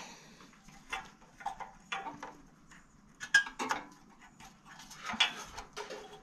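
Irregular light metallic clinks and taps as small metal parts and hand tools are handled and set down during reassembly.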